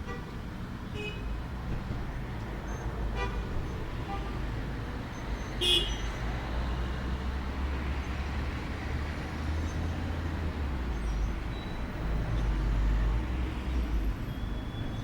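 Outdoor background of steady low rumble, like road traffic, with a few short high chirps or toots; the loudest and sharpest comes about six seconds in.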